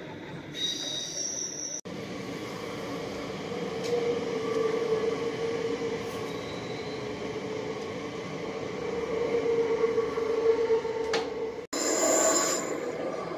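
Electric trains running past on the tracks. First the tail of an ICE high-speed train goes by with a high wheel squeal. After a cut, a red regional electric multiple unit passes with a steady rumble and a humming whine that swells twice. Near the end, a sudden switch to another loud passing train with high squealing tones.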